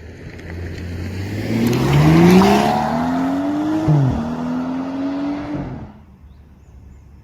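BMW F10 535i's turbocharged straight-six with an M Performance exhaust, accelerating hard past: the note climbs in pitch, drops sharply with an upshift about four seconds in, climbs again, then fades away near six seconds.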